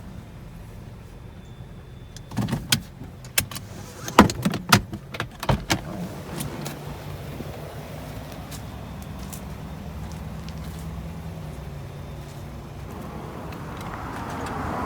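Car engine idling with a steady low rumble. A quick string of sharp clicks and knocks comes a couple of seconds in. Near the end the engine and road noise swell louder as the car moves off.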